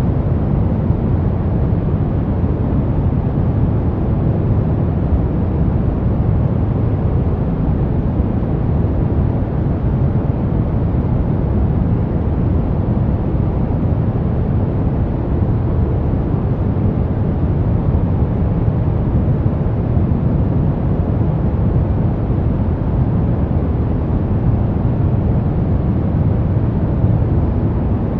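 Brown noise: a steady, even, deep rushing hiss, strongest in the bass and fading toward the treble, with no changes.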